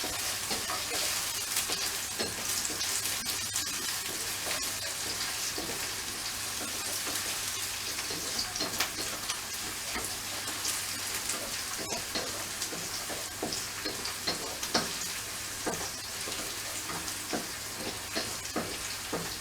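Food sizzling in hot oil in a pan, with scattered scrapes and clicks of stirring. The steady hiss goes on throughout.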